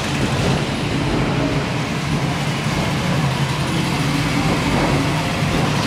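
A car engine running steadily, with a constant low hum under a wash of noise.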